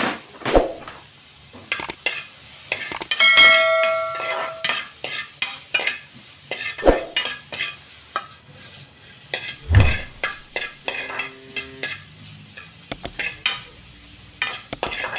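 Sweet corn and carrots being stir-fried in butter in a pan: a utensil stirring and knocking irregularly against the pan over a faint sizzle. One knock about three seconds in rings on for about a second.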